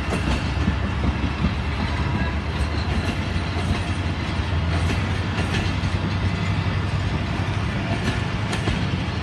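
Passenger express train running along the track as it pulls out of the station: a steady low rumble with the wheels clicking over the rail joints.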